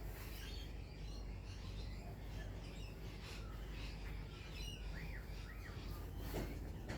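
Several wild birds chirping and calling at once: many short, high chirps overlapping, with a few arching calls about five seconds in, over a steady low background hum.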